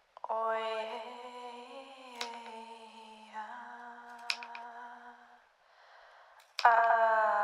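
A person's voice toning: one long held, slightly wavering vocal tone that fades out, a breath in, then a second, louder held tone near the end, with a few small clicks.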